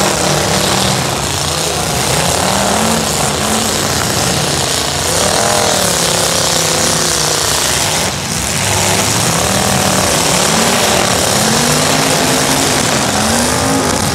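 Several demolition derby cars' engines running loud, revving up and down again and again.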